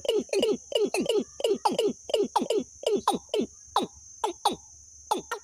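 Bird call: a rapid series of short falling notes, about three a second, that thins out and pauses near the end, over a steady high hiss.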